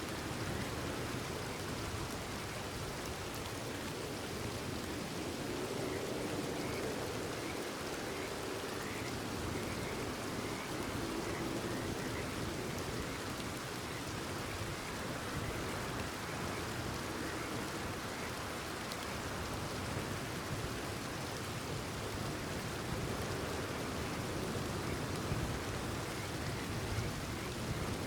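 Steady rain falling, an even hiss of many drops, with faint frog calls chirping now and then through the middle.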